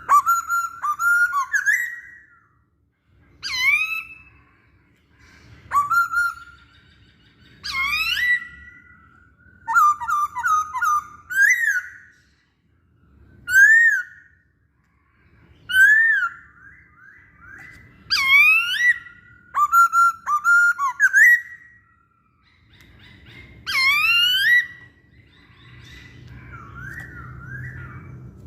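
Masked laughingthrush (poksay Hongkong) singing: loud whistled phrases of swooping, rising and falling notes, coming in short bursts about every two seconds with brief pauses between.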